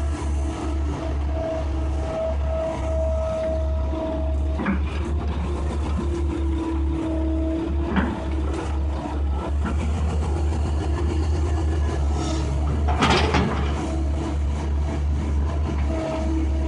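Case tracked excavator's diesel engine running steadily under a low rumble, with a whine that shifts in pitch as the machine works. A few sharp knocks sound about five and eight seconds in, and a louder, longer noisy burst comes about thirteen seconds in.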